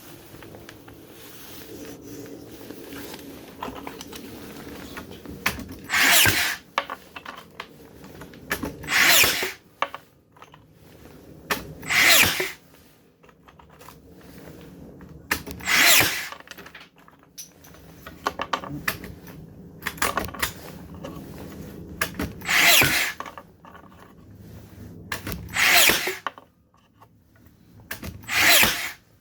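Makita DBN600 cordless nailer's motor-driven drive firing about seven times, a short burst every few seconds with uneven gaps; the tool is misfiring.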